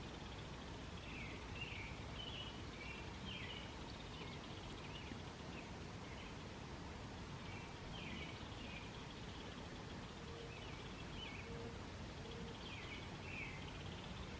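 Small birds chirping and calling on and off over a steady low background noise of open country. Three short, low notes come in a row a little past the middle.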